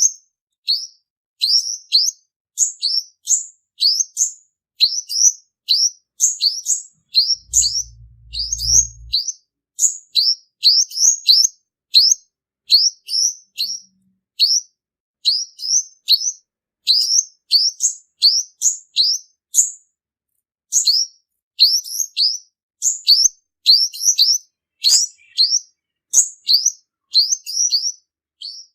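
Male olive-backed sunbird singing: a fast, unbroken series of high, thin chirps, each a quick pitch sweep, about two to three a second. This is the male's song used as a trapping lure. A brief low rumble is heard about eight seconds in.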